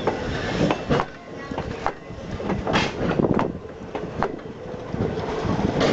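Strasburg Rail Road passenger train rolling by, its wheels knocking over rail joints in irregularly spaced clacks over a steady rumble.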